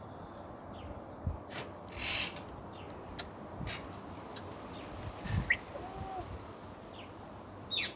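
Pet parrots in an aviary giving scattered short calls: a harsh squawk about two seconds in, then a few brief chirps and a short whistle later on, with a couple of soft knocks.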